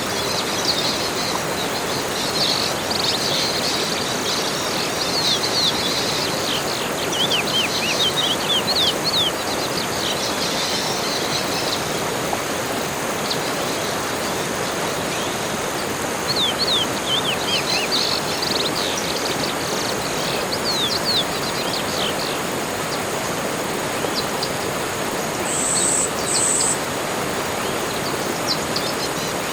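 Forest birds singing: bouts of quick, falling chirps over a steady background hiss, with two short high notes near the end.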